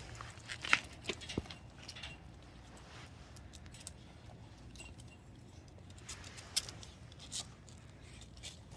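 Jindo dogs moving about and playing: scattered sharp clicks and light taps, loudest about a second in and again around six to seven seconds in.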